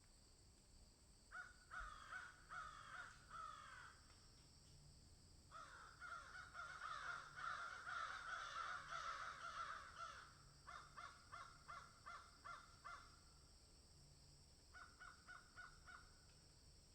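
Birds calling faintly in runs of short repeated calls, each call dropping slightly in pitch. In the middle many calls overlap as several birds call at once. A faint steady hiss lies under them.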